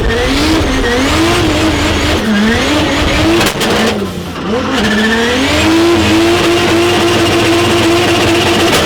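Turbocharged 2JZ-GTE inline-six in a drift car, heard from inside the cabin, revving up and down repeatedly through a drift. About halfway through it settles at steady high revs, then cuts off suddenly at the end.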